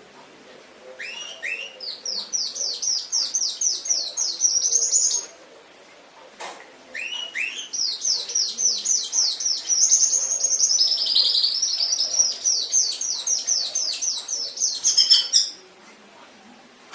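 Domestic canary singing: two bouts of fast, evenly repeated high, downward-sliding notes separated by a short pause, the second bout longer.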